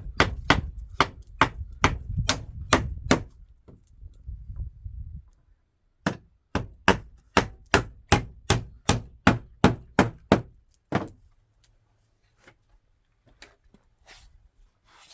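Hammer driving nails into wooden planks: a run of sharp, regular strikes at about two or three a second, a pause of a few seconds, then a second, slightly faster run of about fourteen strikes.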